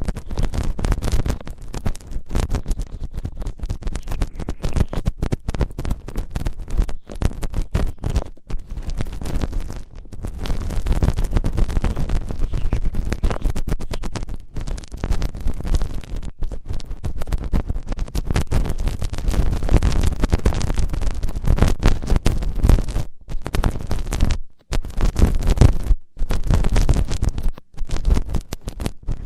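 Close-miked scratching and rubbing on a binaural ASMR ear microphone, as in ear cleaning: a dense, crackling rustle with a deep, muffled rumble, broken by brief sudden gaps.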